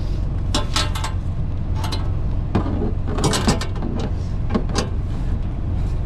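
Semi truck diesel engine idling with a steady low hum, under scattered light clinks and knocks from strap and hardware handling, several of them bunched together about three seconds in.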